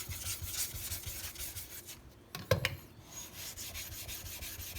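A whetstone being flattened, rubbed back and forth in quick gritty strokes; the pencil marks on its face are almost gone. The rubbing pauses briefly about halfway through with one sharp knock, then starts again.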